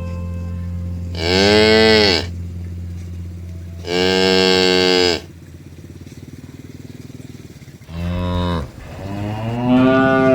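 Cows mooing four times in separate long, pitched calls of about a second each, the last one rising in pitch. A steady low hum runs under the first half.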